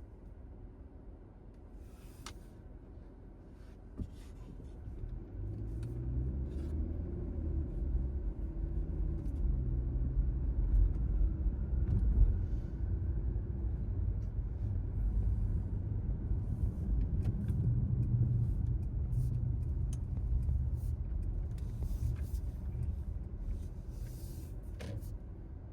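Car driving: low engine and road rumble that grows louder about five seconds in, its engine note rising slowly as the car picks up speed.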